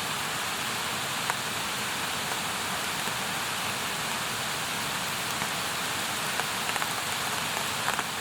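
Campfire burning: a steady hiss with a few sharp crackles and pops, a cluster of them near the end.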